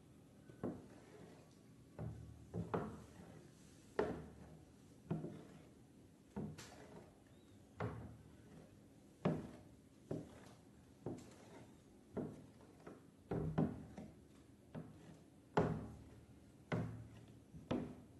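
A series of dull thuds or knocks, roughly one a second and unevenly spaced, each dying away quickly.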